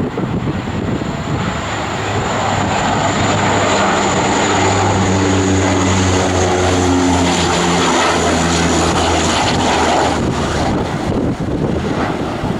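Cargo aircraft passing close by, its engine noise building to a peak in the middle with a steady low hum and a high whine, then easing off after about ten seconds.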